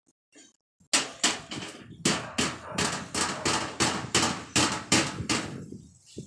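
A toddler banging an object, making about fifteen sharp bangs at a steady three to four a second that start about a second in and stop shortly before the end.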